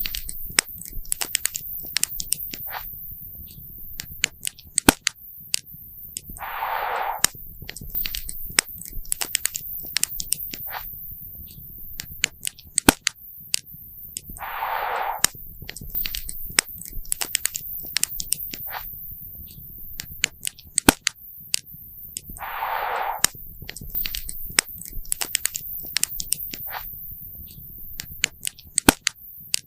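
Campfire crackling, with many sharp pops from the burning wood. A short hissing rush recurs about every eight seconds.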